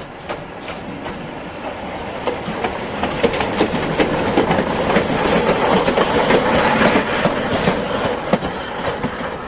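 Train running on the rails, its wheels clicking irregularly over the track. The rumble builds to its loudest about halfway through and then eases off.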